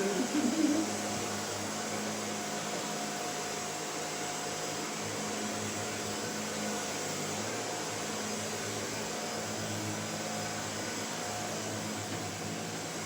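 Shark vacuum cleaner running steadily, its motor giving an even hum and whoosh of air, with a brief louder wavering sound near the start.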